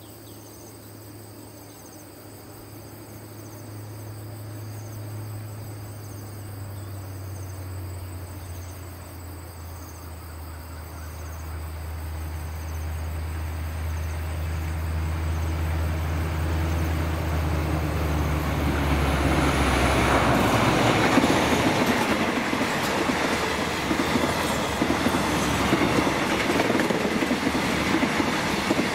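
Diesel locomotive hauling a passenger train approaches, its engine drone growing steadily louder and dropping slightly in pitch as it passes about twenty seconds in. The coaches then roll past loudly, their wheels rattling over the track.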